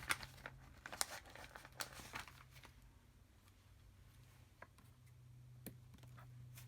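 Stickers being peeled off a paper sticker sheet and handled: sharp paper crackles in the first couple of seconds, then quieter rustling with a couple of single clicks, over a low steady hum.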